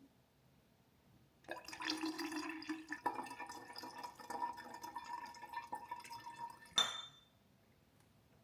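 A drink being poured into a glass, a steady pour lasting about five seconds, ending in a single sharp clink.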